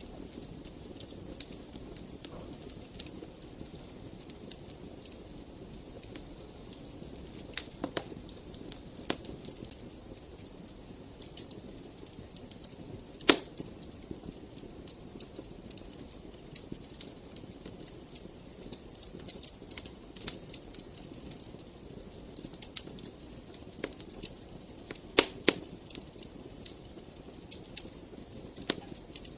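Wood fire in a fireplace crackling: a steady low rush of burning with frequent small crackles and scattered sharp pops, the loudest about 13 seconds in and a pair around 25 seconds in.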